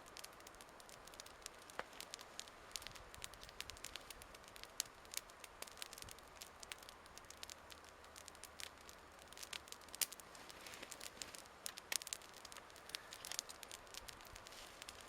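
Campfire burning: wood crackling with irregular sharp pops and snaps over a soft hiss.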